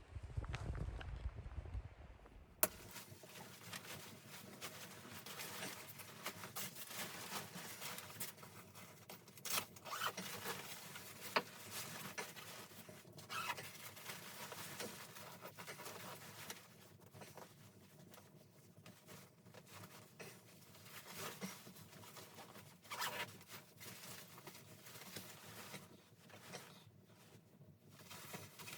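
A low rumble cuts off abruptly about three seconds in. After that comes close rustling and crackling with scattered small clicks and a few louder peaks.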